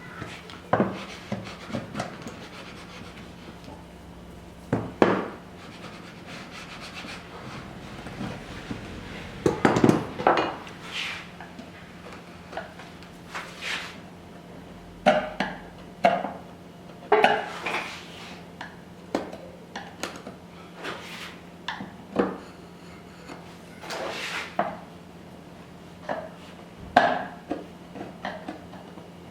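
Hand tools working wood: irregular knocks, clicks and short scrapes of a steel chisel or plane blade on wood as waste is cleared from a lap joint. Some of the knocks ring briefly.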